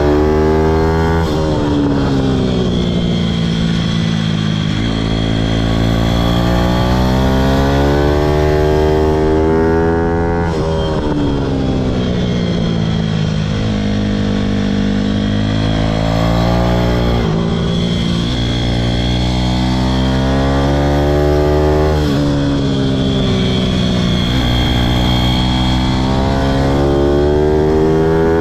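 Pitom pit bike engine running hard under the rider, its pitch climbing again and again and then dropping sharply several times, as with gear changes and rolling off the throttle.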